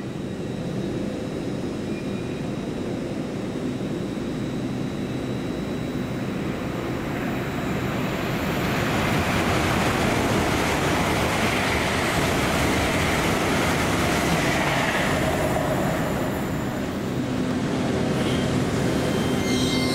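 A passenger train passing through the station: a rumble that swells into a loud rushing of wheels on rail about eight seconds in, holds, eases a few seconds later and picks up again near the end.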